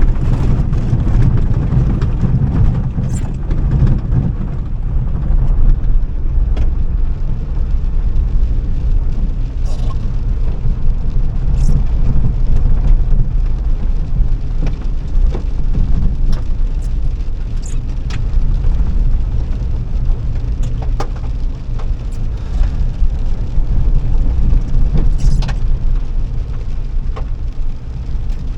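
Car on the move, heard from inside: a steady low rumble of engine and road noise, with scattered light knocks and rattles throughout.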